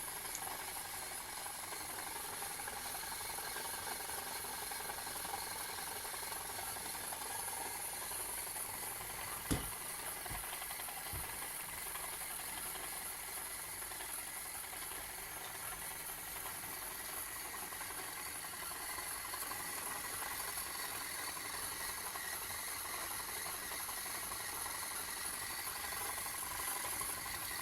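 A PM Research Solar Engine #7 model engine running steadily, turning a belt-driven model windmill: an even, light mechanical rattle. There is a single sharp knock near the middle, with a couple of faint knocks just after.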